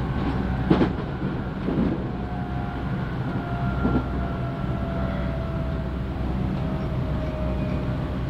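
JR Central 311 series electric train running on the line, heard from inside the passenger car: a steady low rumble with a few knocks in the first four seconds, and a faint whine slowly falling in pitch.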